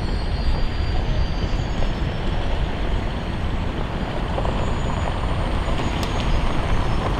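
Loud, steady rumble of a passing train rolling by, with a faint high whine that fades away in the first two seconds.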